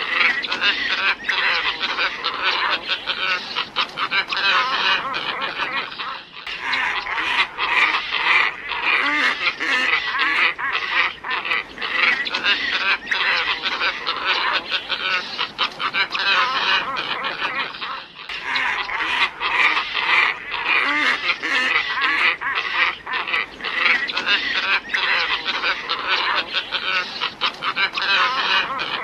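A dense flock chorus of glossy ibis calls, many harsh, honking calls overlapping without pause: a bird-lure recording. It breaks off abruptly and restarts about six seconds in and again about eighteen seconds in.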